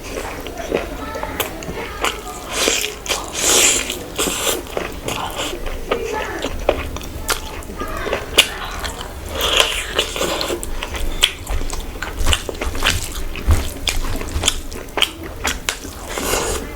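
Close-miked eating sounds: wet chewing, biting and lip smacks, many short sharp clicks in an uneven rhythm.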